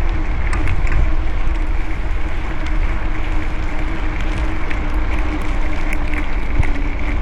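Wind buffeting a camera's built-in microphone on a moving bicycle, a heavy steady rumble mixed with road noise and a steady hum, with scattered faint ticks.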